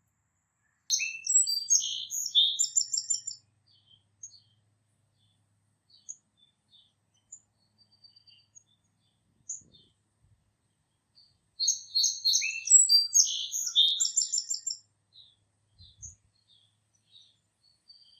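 Songbirds singing: two runs of rapid, high twittering song about ten seconds apart, with scattered single chirps in between.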